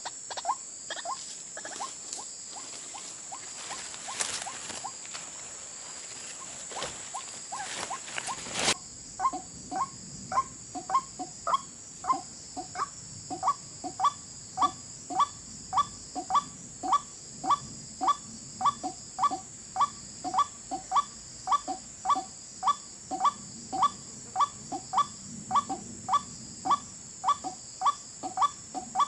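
White-breasted waterhen (ruak-ruak) calling, one short croaking note repeated over and over at about two a second. The calls turn louder and steadier about nine seconds in, with a sudden break there. A steady high-pitched whine runs underneath.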